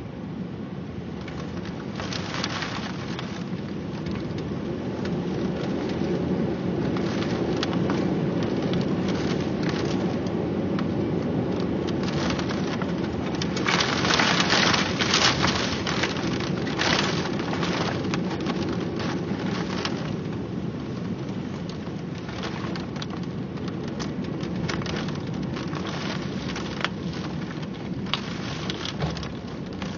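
Heavy rain falling and hitting a hard surface as thick, fine spatter over a low rumble. The rain swells to a louder, heavier stretch about halfway through, then eases off a little.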